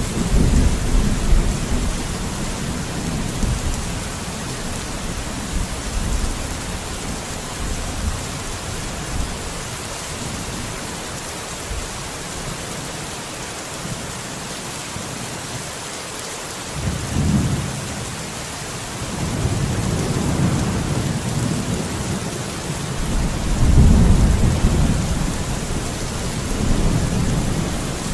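Steady rain falling, with thunder rumbling in deep swells: near the start, briefly about 17 s in, and again in a long roll that peaks near the end.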